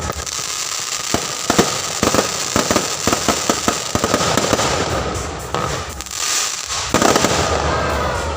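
Aerial fireworks exploding: a rapid run of sharp crackling pops in the first few seconds, then heavier bursts later on.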